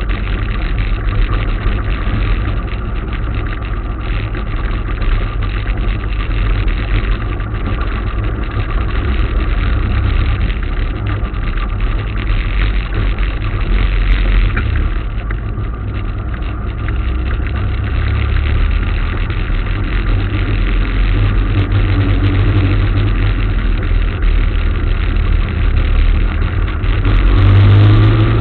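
Motorcycle engine running steadily while riding, with a deep rumble, swelling louder briefly near the end.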